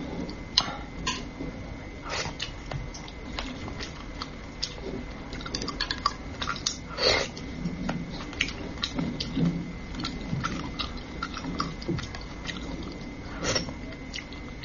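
Close-miked eating of spicy braised fish: chewing and mouth smacks, many short irregular clicks as morsels are taken from chopsticks and chewed.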